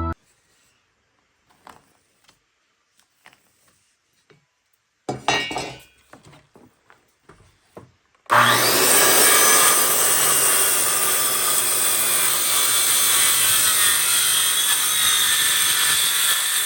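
A few faint knocks and a short clatter of wood being handled, then a power saw starts about eight seconds in and cuts steadily into a thick reclaimed hardwood beam. The beam is deeper than the saw's blade can reach, so this cut does not go all the way through.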